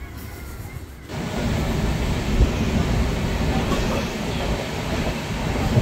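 Running noise of a passenger train heard from inside the coach: a steady low rumble that jumps louder about a second in.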